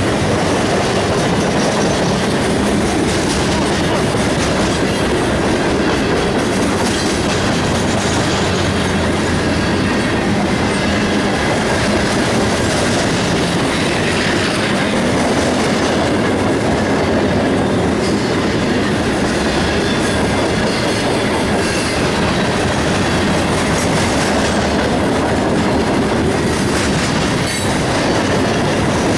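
CSX freight train rolling past, a steady loud rumble of railcars with wheels clacking over the rail joints.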